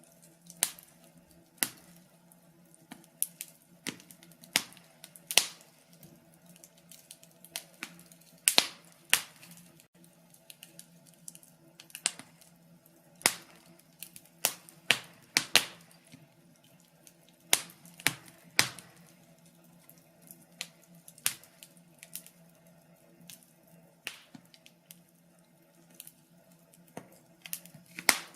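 Fire crackling: irregular sharp pops and snaps, roughly one a second and busiest in the middle, over a faint steady low hum.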